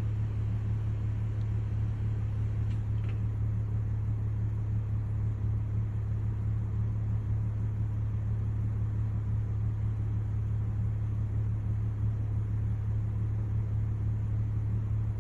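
A steady low hum that does not change in pitch or level. No rolling thunder is heard.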